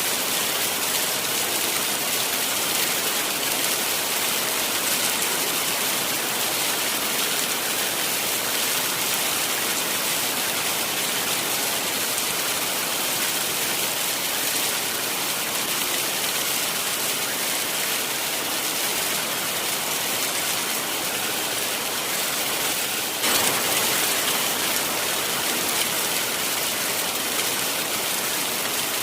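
Heavy rain falling: a steady, dense hiss. It gets suddenly louder about three-quarters of the way through, then eases back over the next couple of seconds.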